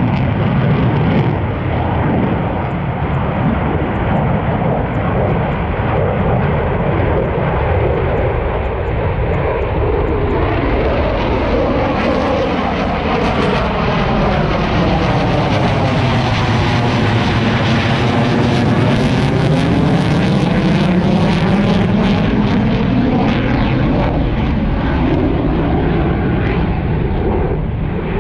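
A fixed-wing airplane's engines running loud and steady as it flies past, with a sweeping change in tone through the middle as it passes closest.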